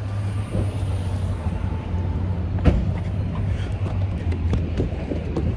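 Low, steady rumble of a car running, with a single sharp knock about halfway through and a run of light clicks after it.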